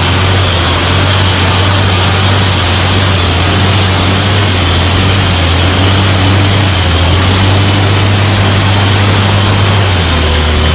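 Vehicle engine running steadily, a constant low hum under loud, even noise.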